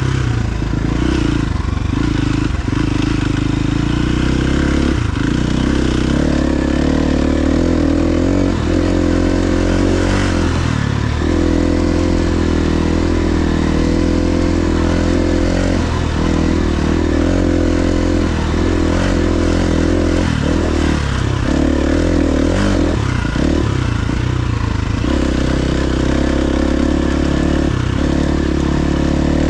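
KTM 350 XC-F dirt bike's single-cylinder four-stroke engine running while ridden, its pitch holding steady with several brief dips as the throttle is rolled off and back on.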